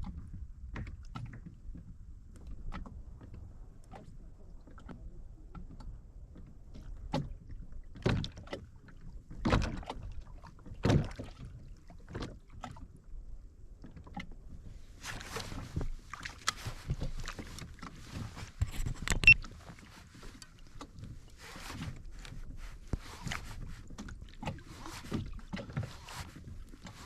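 Irregular knocks and thumps against a fishing kayak's hull as gear is handled aboard, with denser clicking and rustling from about halfway through.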